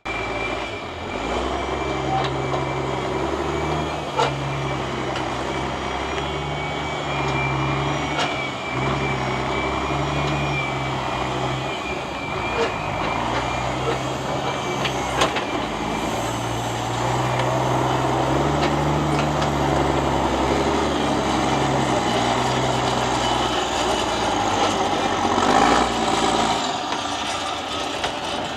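Competition truck's diesel engine working hard on a truck trial course, its revs stepping up and down again and again. A few sharp knocks sound over it.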